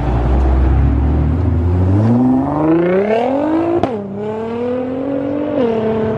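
A performance car's engine accelerating hard: the revs climb, drop sharply at a gear change a little under four seconds in, climb again, and drop at another shift near the end.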